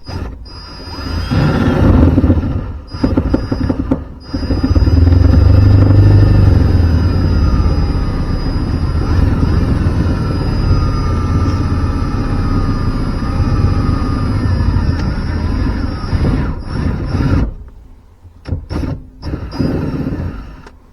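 Power drill running under load on the car's shifter mounting: two short bursts, then one long run of about 13 seconds whose pitch wavers, stopping suddenly near the end.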